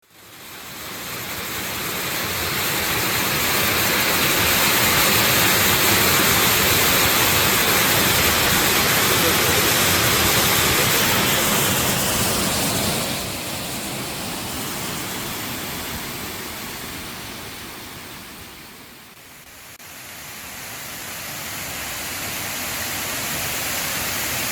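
Waterfall, a steady rush of falling water. It fades in at the start, drops somewhat in level about halfway through, dips briefly near three-quarters of the way, then swells again.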